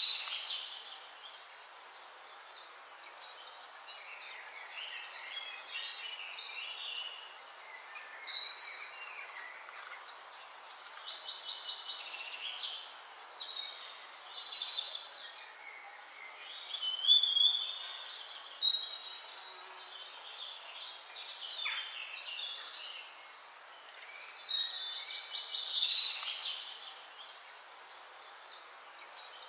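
Songbirds singing: short, varied chirping phrases come every few seconds, some quick and trilled, over a faint steady background hiss.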